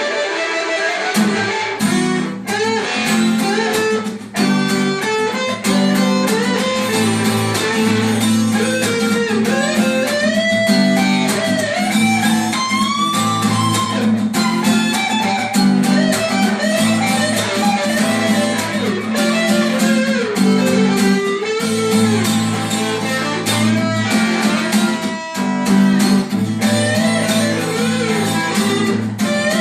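Guitar improvising a melodic lead line with frequent string bends and slides over steady, sustained low chords.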